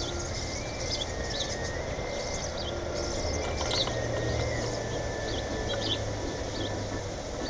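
Small birds chirping, many short high chirps in quick succession, over a low rumble that swells through the middle and faint thin steady tones.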